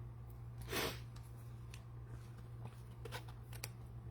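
Quiet room tone with a steady low hum, a brief soft rustle about a second in, and a few faint ticks about three seconds in.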